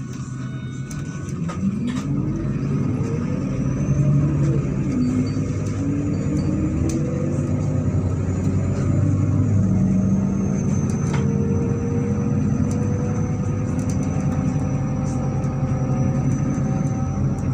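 MAZ-103 city bus engine and drivetrain heard from inside the bus while pulling away. The pitch rises, drops back at a gear change about four seconds in and again about nine seconds in, then climbs slowly as the bus gathers speed, with light rattles from the cabin.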